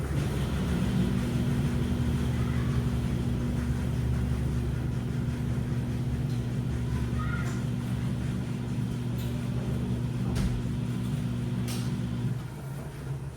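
Washing machine running with a steady low motor hum and a few faint clicks. About twelve seconds in, the hum drops away and the sound gets quieter.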